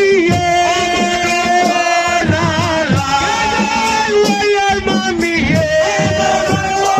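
Live band music: a lead melody of long, ornamented held notes over a steady drum rhythm.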